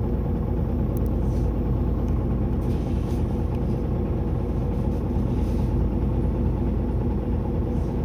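Diesel engine of a Mitsubishi Fuso LKG-MP37FKF city bus running steadily at an even pitch, heard from inside the cabin, with a few faint clicks and rattles.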